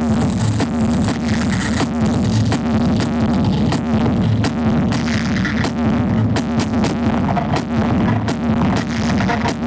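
Electronic dance music with a heavy bass and a steady beat, played very loud through Blizzard Audio's truck-mounted sound horeg system.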